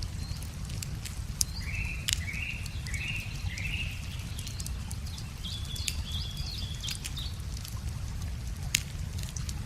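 Wood fire crackling with irregular sharp pops over a steady low rumble. A bird calls four short notes in a row about two seconds in, then gives higher whistled notes around the middle.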